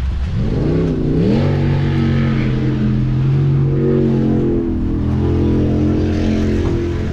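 V8 jet sprint boat engine running: a few quick revs about half a second in, then held at a steady pitch, the note shifting to a new level about two-thirds of the way through.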